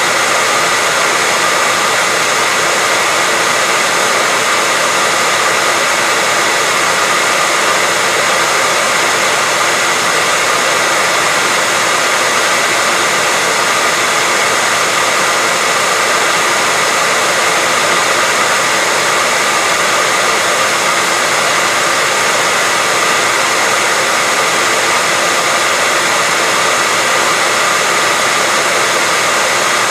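Hair dryer running steadily: an even rushing noise with a faint, steady high whine in it.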